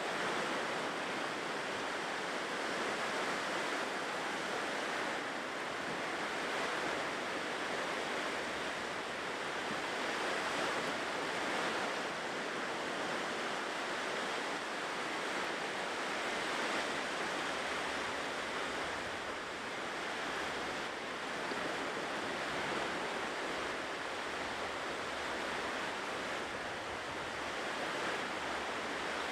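Ocean surf washing steadily on a shore, a continuous rush of waves that swells and eases slightly in loudness.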